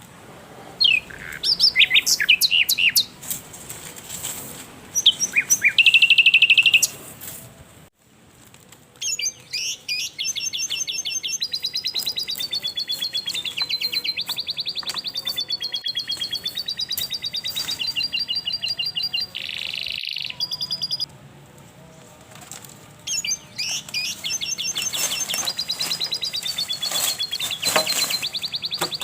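Forest birds calling. Quick sharp chirps come first. Then long runs of rapid trilled notes waver up and down in pitch, pause briefly about two-thirds of the way through, and start again.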